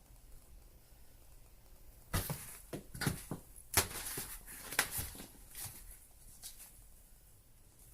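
A cat batting at a plastic cat play toy: a run of irregular clicks and knocks that starts about two seconds in and dies away near the end.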